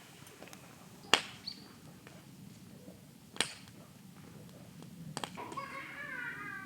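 Three sharp knocks, about two seconds apart, then near the end a brief wavering call with several falling tones.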